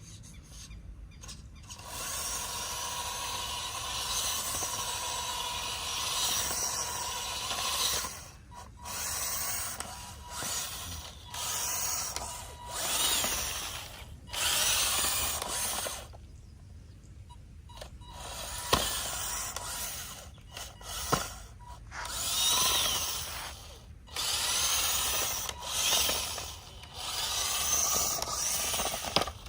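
Small electric gear motor of an RC mini tractor whirring in stop-start runs of a few seconds, with short pauses between runs and the pitch sliding up and down as it drives.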